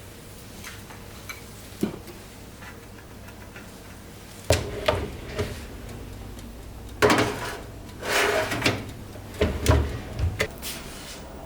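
Kitchen handling sounds: a series of knocks and clunks, like dishes, utensils and a drawer or cupboard being handled, with a short scraping or sliding sound in the middle.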